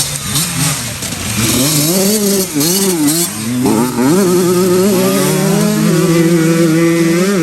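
Motorcycle engine revving, its pitch rising and falling several times, then holding a steadier note from about four seconds in.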